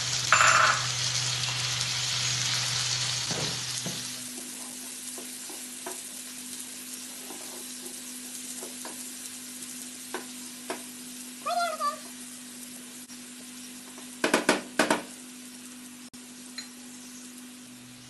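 Chopped tomatoes and onions sizzling in hot oil in a frying pan, loudest for the first few seconds and then settling to a quieter sizzle. A wooden spatula stirs and scrapes the mixture, with a quick cluster of sharp clicks about fourteen seconds in.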